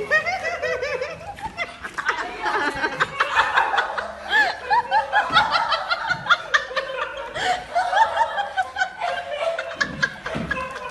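People laughing, with many short overlapping bursts of laughter throughout.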